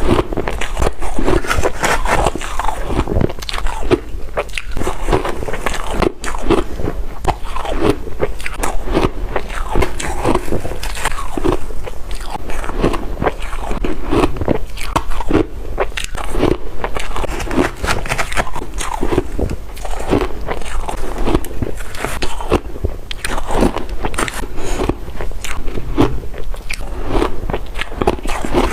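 Shaved ice, wet from being dipped in water, being bitten and chewed: loud, dense crunching and crackling that goes on without a break.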